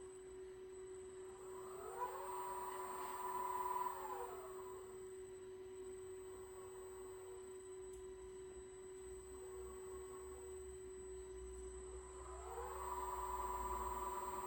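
Servo motors of a vacuum wafer-transfer robot whining as the arm moves, rising in pitch as they speed up, holding a steady tone, then falling as they slow down. This happens once about two seconds in and again near the end, over a steady low hum.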